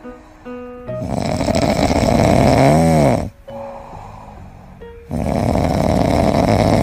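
A dog snoring loudly: two long, rasping snores about four seconds apart, the first ending in a brief squeaky whistle, with faint background music between them.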